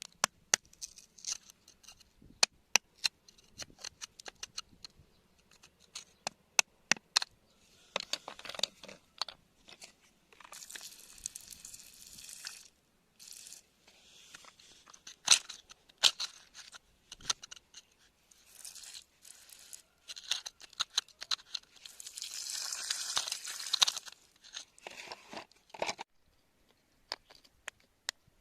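Hand tools tapping and scraping at rock: a run of sharp clicks and knocks, broken by longer crunching scrapes, the longest about two-thirds of the way through. The sounds stop a couple of seconds before the end.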